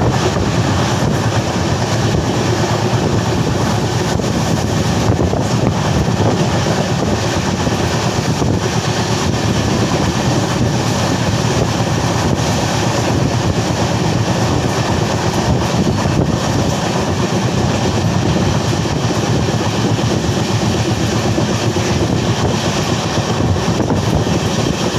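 Passenger train running at speed, heard from inside the coach: a steady, loud rumble and rush of the wheels on the rails.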